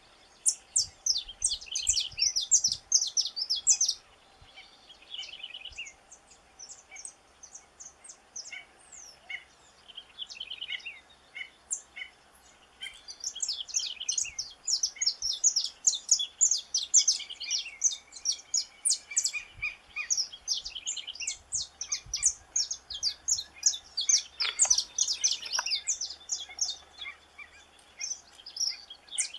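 Saffron finch (canário-da-terra) singing: phrases of rapid, high chirping notes separated by short pauses.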